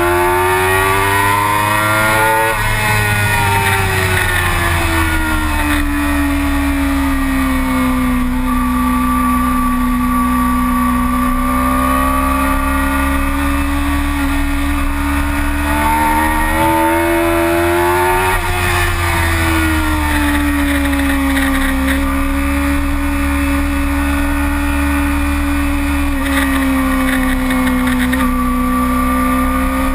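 Yamaha R6 sport bike's inline-four engine heard from on the bike at track speed, the pitch climbing and then falling sharply about two and a half seconds in, holding steady through a long stretch, climbing again and falling off once more a little past halfway. Wind rushes steadily over the microphone throughout.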